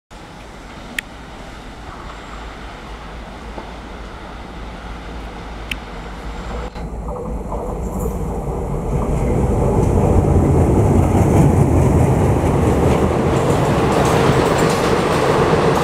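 WDM-3A diesel locomotive, with its ALCO diesel engine, hauling a passenger train towards and past the listener, its running noise growing steadily louder. It is loudest from about ten seconds in, as the coaches roll past over the rails.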